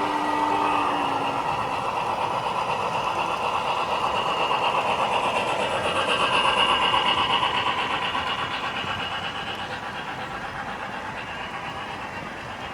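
Model train running on the layout track, a steady fast mechanical clatter of motor and wheels that swells as it comes closer, peaks about halfway through and then fades as it moves away.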